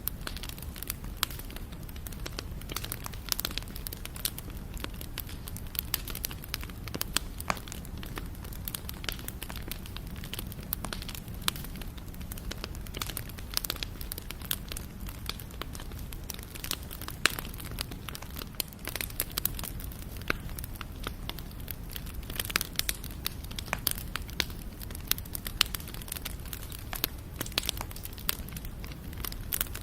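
Wood fire burning, with frequent sharp crackles and pops over a steady low rush of flame; one pop about halfway through is the loudest.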